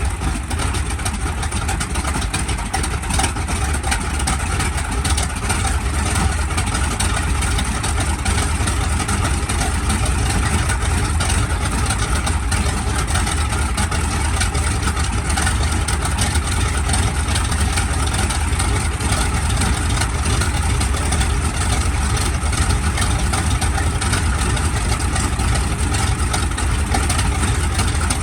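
SB2C Helldiver's Wright R-2600 Twin Cyclone 14-cylinder radial engine running steadily on its first ground run after an engine replacement, with no change in speed.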